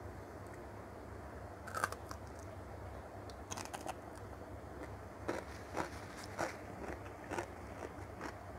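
Mouth-close crunching of a crisp cucumber slice topped with sambal: a bite a few seconds in, then single crisp crunches about every half second to a second as it is chewed, over a low steady hum.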